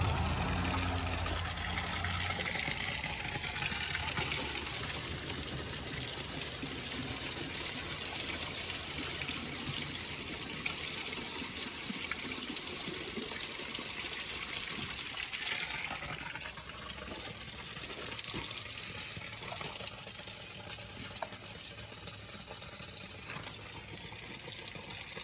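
Water from a small spring-fed waterfall splashing and pouring steadily as plastic water containers are filled from it.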